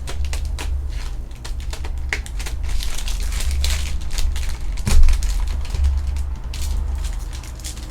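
Trading card packs and cards being handled at a table: crinkling foil wrappers and many quick clicks and rustles, with one sharp knock about five seconds in.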